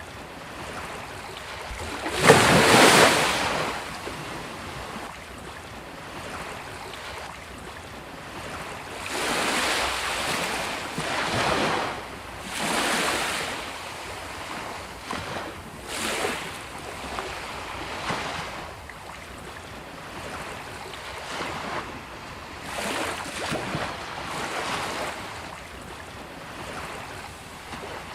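Sea waves breaking on a beach, one after another: a big crash about two seconds in, then smaller breakers washing in and hissing back between them.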